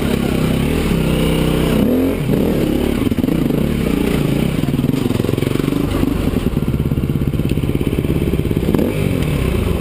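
Enduro motorcycle engine running at low revs. The pitch rises and falls with throttle blips in the first two seconds, then the engine settles into a steady low pulsing.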